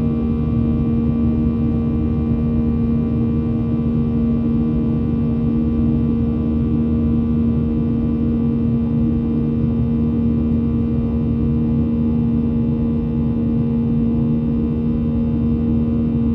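Boeing 737-900's CFM56-7B jet engines heard from inside the cabin: a steady low rumble with an even, unchanging hum.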